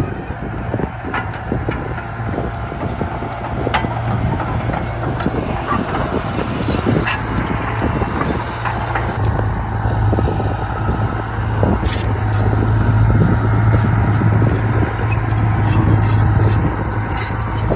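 Komatsu D31P crawler bulldozer working, its diesel engine running steadily and growing louder over the second half, with irregular metallic clanks and knocks throughout.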